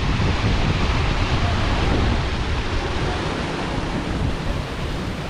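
Wind buffeting the microphone with an uneven low rumble, over a steady rushing hiss.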